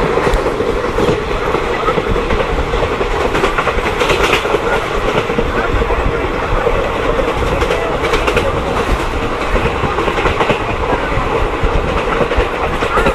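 Passenger train running on the track: a steady loud rumble of wheels on rail, with scattered short clicks from the wheels passing over rail joints.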